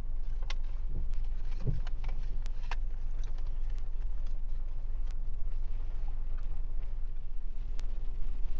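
Steady low rumble of a car waiting in a queue, heard from inside, with scattered light ticks of rain on the car.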